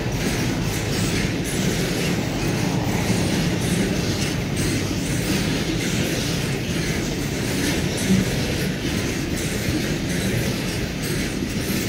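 Loaded GB container flat wagons of a long freight train rolling past, their steel wheels on the rails making a steady rumble with repeated clicks.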